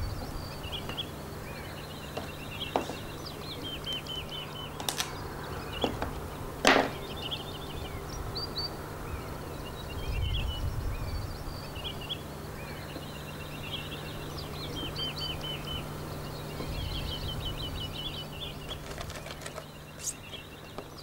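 Small birds chirping and twittering in short repeated trills, over a steady low hum, with a few sharp clicks, the loudest about six and a half seconds in.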